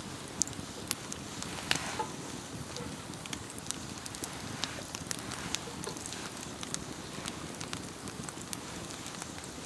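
Wood campfire crackling, with irregular sharp pops, a few louder ones in the first two seconds.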